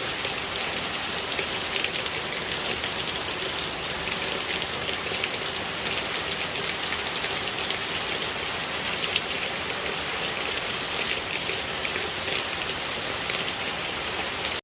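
Steady rain falling, a dense hiss of many small drop hits at an even level, cutting off abruptly at the end.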